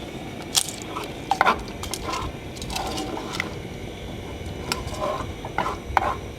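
Irregular light clinks and knocks of a spoon against a pot, as boiled rice soup is scooped and stirred.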